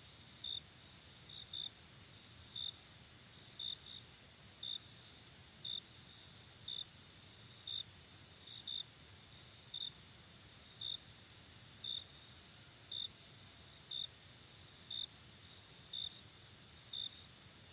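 Crickets chirping faintly: short high chirps about once a second, now and then in pairs, over a steady high-pitched trill.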